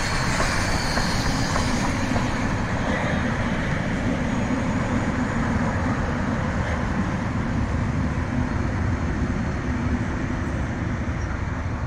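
Steam locomotive Ww 644 and its train of carriages rolling past: a steady rumble of wheels on the rails, with a faint high hiss near the start.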